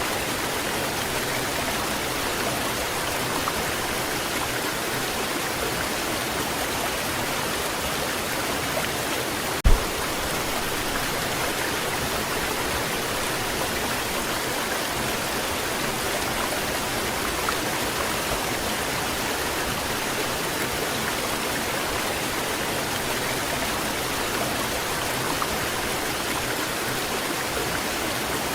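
Waterfall rushing steadily, an even hiss of falling water that doesn't change. A single brief low thump about ten seconds in.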